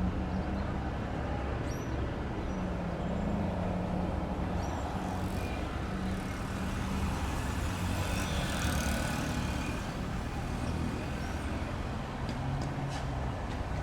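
An engine running steadily at a low, slightly wavering pitch over a continuous background hum.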